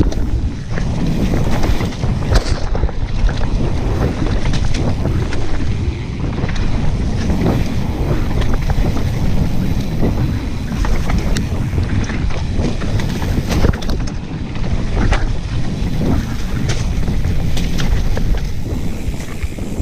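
Mountain bike riding down a dirt trail: wind buffeting the microphone over a steady rumble of tyres on dirt, with frequent clicks and rattles from the bike.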